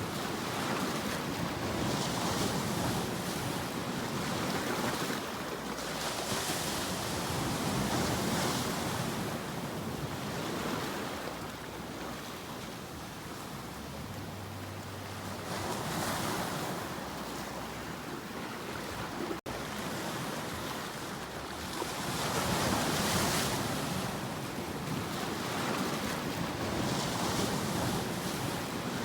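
Ocean waves breaking and washing up as surf, swelling and easing every few seconds. There is a very brief dropout in the sound about two-thirds of the way through.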